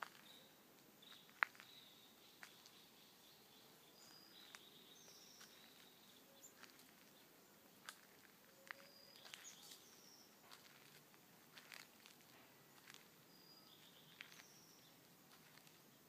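Faint birds calling along a wooded trail: short high chirps and quick runs of repeated notes, scattered throughout, over quiet outdoor ambience. Irregular sharp ticks and crunches of footsteps on a dirt-and-gravel path.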